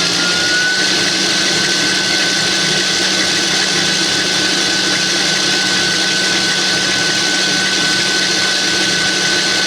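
GE Profile Smart stand mixer running at high speed, a loud steady motor whine with a high tone that rises slightly in the first second as it comes up to speed, then holds steady.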